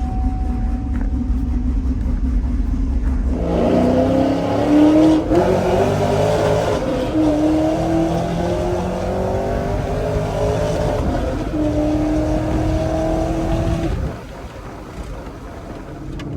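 2005 GMC Sierra pickup engine running steadily, then accelerating hard from about three and a half seconds in. Its pitch climbs and drops back several times as the manual gearbox is shifted up through the gears. Near the end it falls back quieter as the driver eases off.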